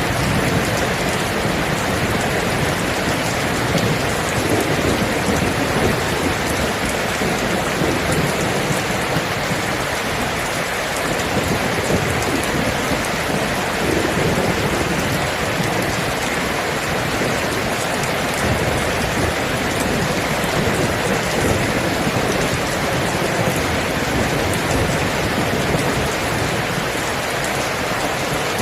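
Steady heavy rain with a low rumble of distant thunder underneath.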